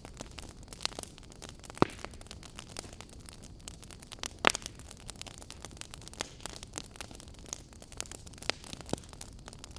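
Campfire burning, a steady low hiss with irregular crackles and pops from the burning wood. The loudest pops come about two seconds in and again near the middle.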